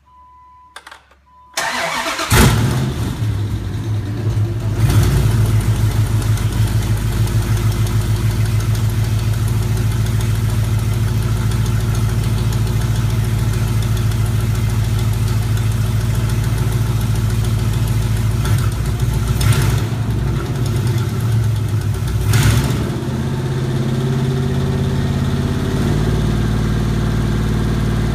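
A 2007 Chrysler 5.7 HEMI V8, swapped into a 2004 Jeep Wrangler Rubicon, cranks briefly, catches with a flare of revs about two seconds in and settles into a steady idle on a test run of the new conversion. A few short blips of the throttle come later, and after the last one, about three-quarters of the way through, the idle runs a little lower.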